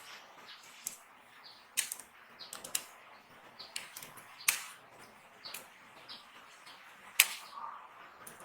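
Dry soap being cut, giving crisp cracks and crumbling crackles at irregular intervals, with a few sharper snaps, the loudest about seven seconds in.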